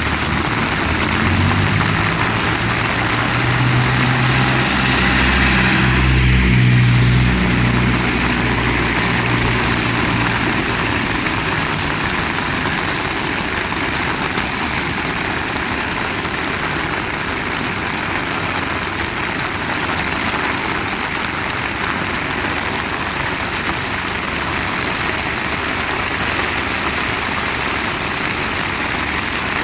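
Heavy rain falling steadily. Over the first ten seconds a motor vehicle's engine passes close by, loudest about six seconds in, then fades into the rain.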